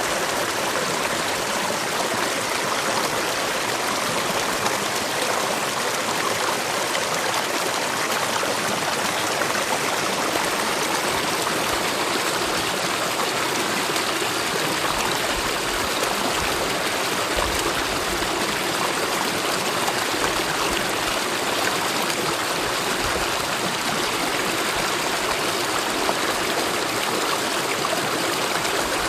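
Mountain valley stream flowing steadily, a continuous, even rush of water with no breaks.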